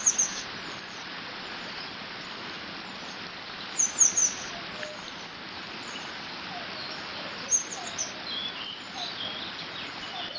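Water running steadily through a beaver dam, with birds singing over it: a quick burst of three or four high notes comes three times, near the start, about four seconds in and near eight seconds, with scattered softer chirps between.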